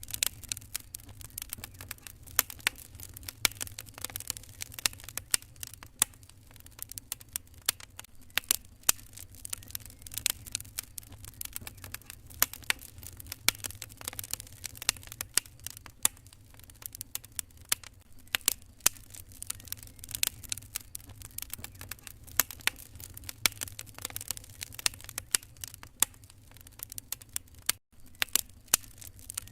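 Wood fire crackling in a fireplace: irregular sharp pops and snaps over a low steady rumble, with a split-second gap near the end.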